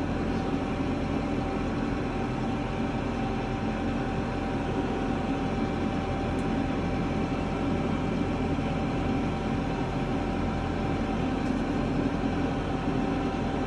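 Large farm tractor's engine running steadily, heard from inside the cab: a constant low drone with a thin steady tone above it.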